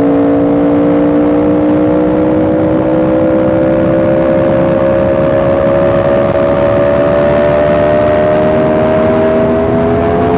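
Yamaha R1M's crossplane inline-four engine running steadily under way, its pitch rising slowly and evenly as the bike gradually gains speed.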